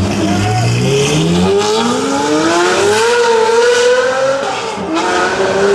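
Pagani Zonda's Mercedes-AMG V12 accelerating hard: the exhaust note rises steadily in pitch for about three seconds, then holds level, with a brief dip near the end.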